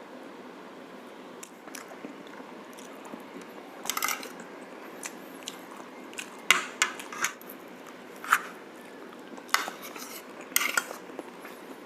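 Cutlery clinking and scraping against a plate while someone eats braised pork shank, with some chewing. There are a dozen or so sharp clicks, starting about four seconds in.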